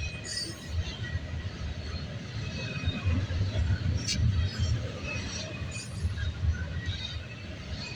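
CSX intermodal freight cars rolling past at speed with a steady low rumble, wheels clattering, and scattered short high wheel squeals, plus a sharp click about four seconds in.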